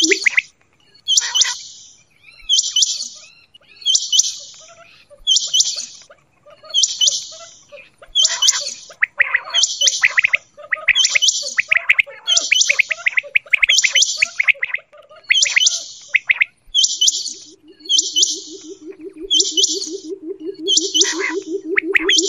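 Quail calling: short, high calls repeated about once a second. A low, fast purring trill joins in about three-quarters of the way through.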